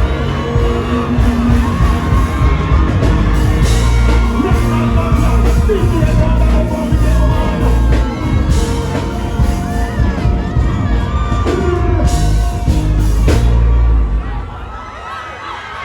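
Loud live dancehall music with heavy bass and singing over a yelling crowd at a concert; the music cuts out a little before the end, leaving the crowd's noise.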